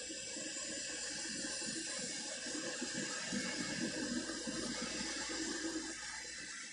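Cars of a manifest freight train rolling past: a steady rumble and hiss of steel wheels on the rails.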